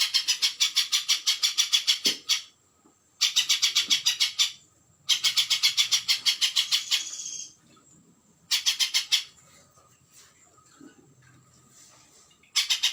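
Spiderhunter (pijantung) giving its fast chattering call: runs of sharp, evenly repeated notes, about nine a second, in four bursts of one to two seconds with short pauses between, and another burst starting near the end.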